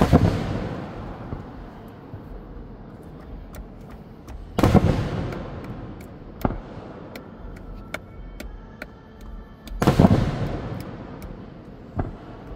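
Aerial firework shells bursting: three loud booms about five seconds apart, each echoing away, with smaller pops and faint crackling between them.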